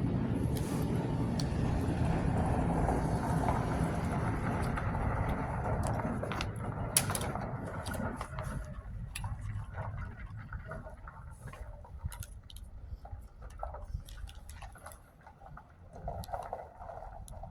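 A passing vehicle's steady sound that fades away about halfway through, followed by scattered small clicks and handling noises.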